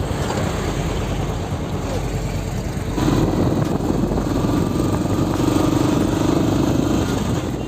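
Motorcycle running along the road, a steady noisy rush that gets louder about three seconds in.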